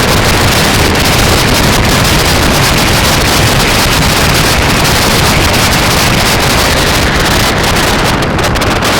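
Loud, steady wind rushing over the microphone of a camera on a moving bike, drowning out any other sound. It eases slightly near the end.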